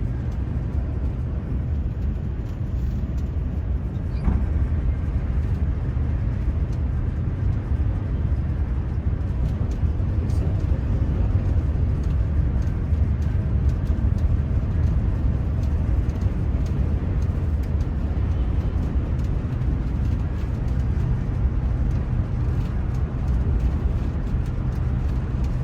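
Ouigo high-speed train running at speed, heard from inside the carriage as a steady, deep rumble.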